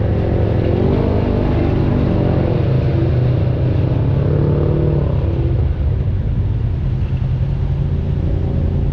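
Off-road vehicle engine running on a trail, revving up and easing back off a few times.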